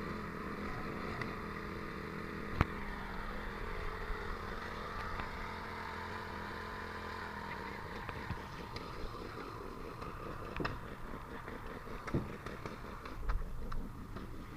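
An engine running at a steady speed, with a sharp click about two and a half seconds in and a few short knocks near the end.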